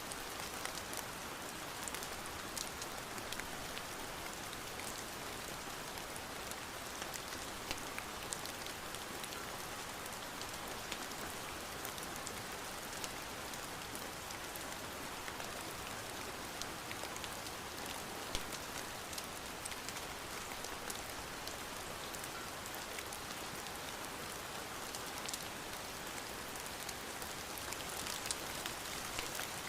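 Steady rain falling, an even hiss with many small sharp drop taps scattered through it.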